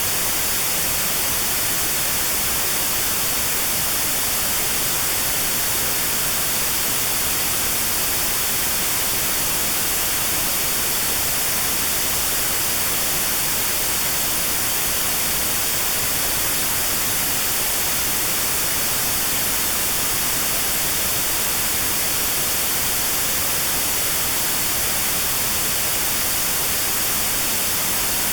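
Notch-filtered white noise for tinnitus sound therapy: a steady, even hiss with a narrow band around 4 kHz cut out.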